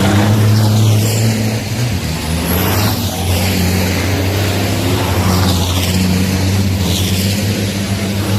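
Race trucks' turbocharged diesel engines running at race pace: a steady low engine note, with a high hiss that falls in pitch about every two seconds.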